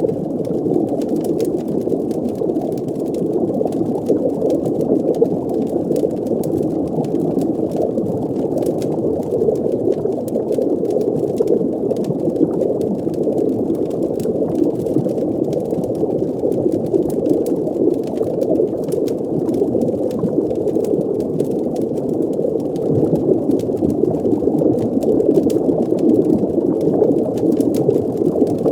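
Underwater fireplace ambience: a steady, muffled low rush of water and bubbling, with faint scattered crackles over it.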